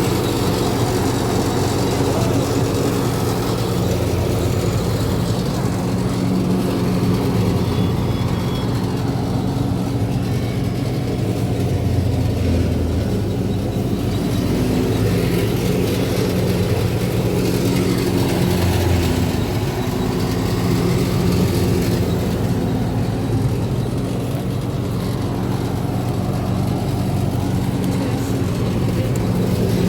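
Fiat 640 tractor's four-cylinder diesel engine running steadily under load while driving a wheat thresher, with the thresher's machinery humming along with it.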